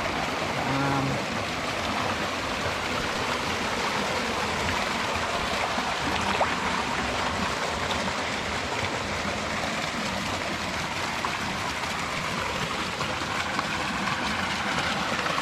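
Running water rushing steadily: the fresh spring-water flow that feeds the trout ponds.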